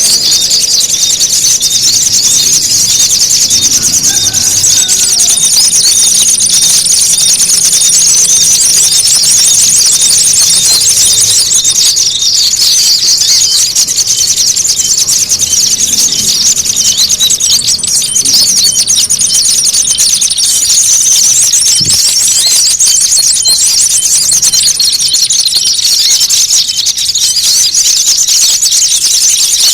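Small-bird lure calls: a dense, continuous chatter of rapid high-pitched chirps from many small songbirds layered together, meant as noisy 'fighting' calls to draw small birds in. A thin, steady, very high whine runs over it and drops out for a few seconds now and then.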